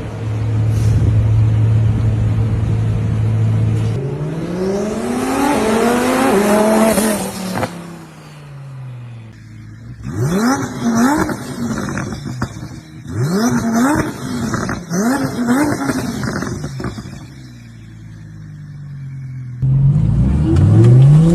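Twin-turbo Audi R8 V10 engine holding a steady low note, then revving up hard and falling away. After a short lull it accelerates through several quick gear shifts, its pitch climbing and dropping back each time, then runs down before pulling hard again near the end.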